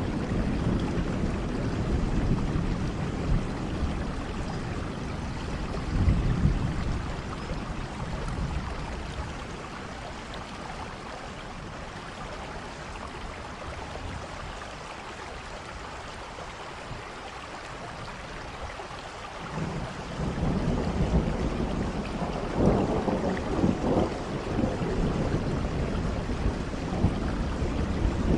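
Steady rain with low rolling thunder. The rumble eases off in the middle and swells again about two-thirds of the way through.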